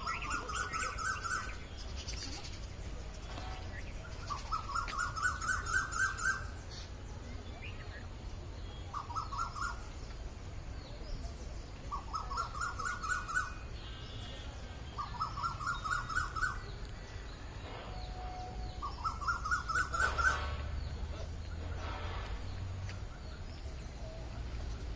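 A bird calling over and over, each call a quick run of notes rising slightly in pitch and lasting a second or two, repeated every three to four seconds, six times in all. Other birds add higher, fainter chirps over a steady low rumble.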